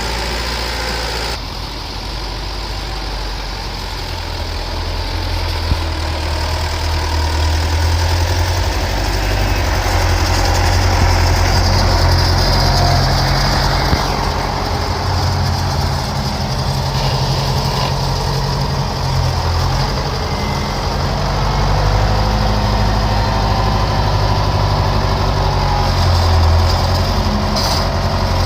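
County 764 four-wheel-drive tractor's diesel engine running while working a buckrake, its engine note swelling and easing as it pushes and lifts. The sound changes abruptly about a second in.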